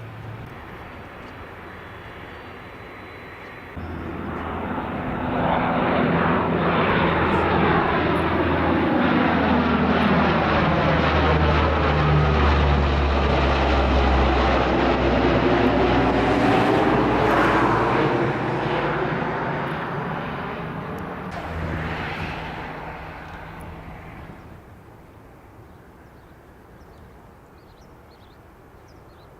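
Airbus A380 jet engines during a low demonstration flyover. The noise swells about four seconds in and stays loud for about twelve seconds. Its tone sweeps down and then back up as the aircraft passes, and it fades away over the last several seconds.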